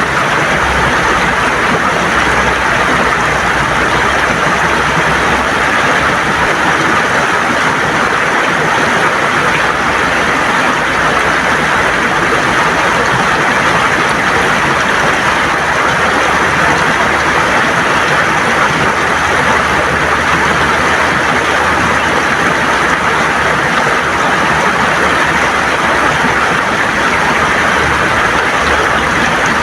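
River water gurgling and rushing over stones, a steady, even flow.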